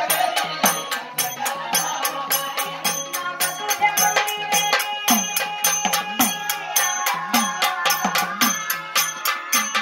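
Marathi devotional folk song accompaniment: a shaken or struck jingling percussion instrument keeps a steady beat of about four strikes a second over sustained tones and a hand drum.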